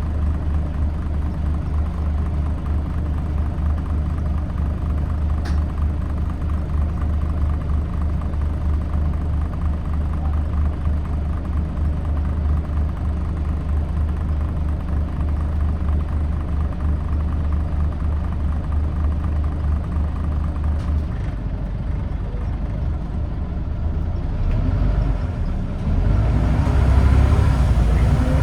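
Scania N94UD Omnidekka double-decker bus's five-cylinder diesel engine heard from on board, running with a steady low hum. In the last few seconds the engine gets louder with a rising whine as the bus accelerates.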